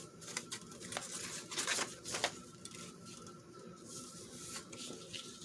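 Paper scraps being handled on a craft table: light rustling with a few soft taps and clicks, busiest about one to two seconds in.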